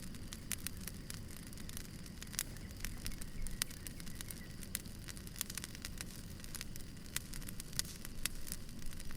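Wood fire crackling: irregular sharp pops and snaps of burning logs over a low steady rumble.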